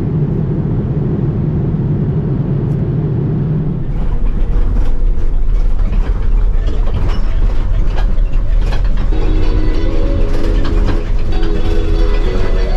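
Steady vehicle rumble that turns louder and deeper with rattling about four seconds in. Music with held notes comes in over it about two-thirds of the way through.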